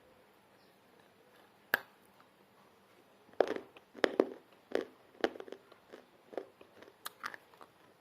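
Pieces of baked clay pot being bitten and chewed close to the microphone: one sharp crack, then from about three and a half seconds in a run of irregular crunches.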